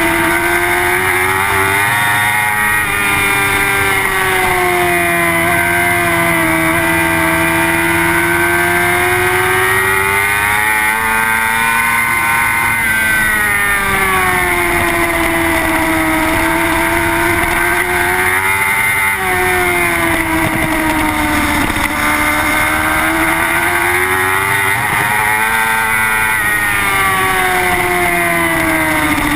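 Suzuki GSX-R superbike's inline-four engine running hard at racing revs on board, its pitch swelling and easing several times, highest about 12, 19 and 26 seconds in.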